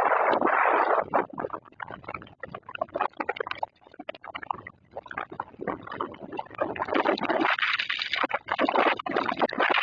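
Storm noise: gusting wind and rain, rising and falling unevenly with many small clicks and patters.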